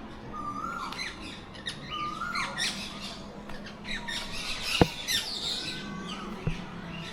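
Many captive birds calling at once, a chatter of chirps and squawks. A whistled call rises and then drops sharply, twice in the first few seconds. A single sharp click about two thirds of the way in is the loudest sound.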